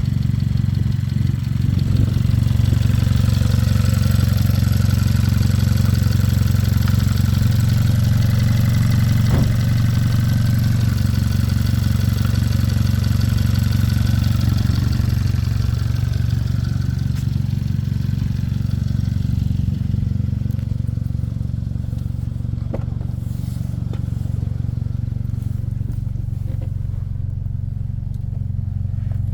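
A 2012 Hyundai i40's 2.0-litre four-cylinder petrol engine running at idle, steady, with a few light clicks. The idle eases slightly and grows a little quieter about twenty seconds in.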